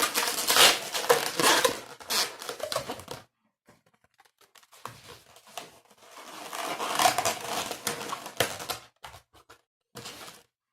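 Long latex modelling balloons being handled and twisted, the rubber rubbing and squeaking in crinkly spells: one over the first three seconds, then after a pause another for about four seconds.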